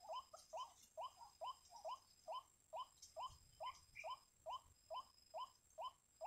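White-breasted waterhen (ruak-ruak) calling, a faint steady series of short rising notes, about two and a half a second.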